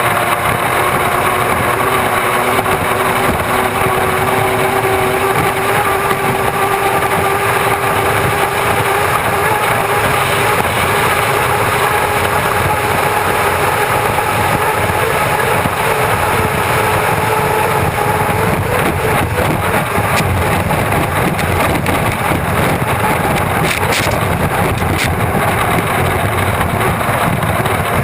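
Turbine engine of an Unlimited hydroplane running, heard onboard as a loud, steady rush with faint whining tones that drift slowly up in pitch.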